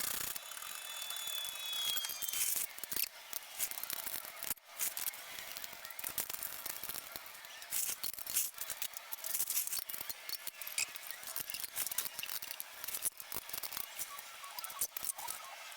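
Scattered light clicks and clinks of hand tools at work on a car, with a brief high squeak in the first second or two.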